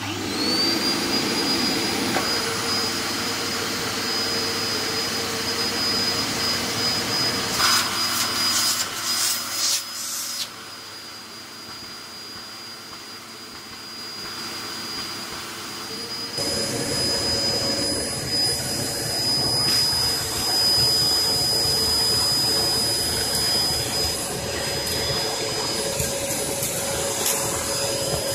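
Hoover Performer Pet HPT16 upright vacuum cleaner switched on, its motor spinning up to a steady high whine within the first second and running on. There are bursts of crackling about eight to ten seconds in. The sound drops quieter about ten seconds in and comes back louder about sixteen seconds in.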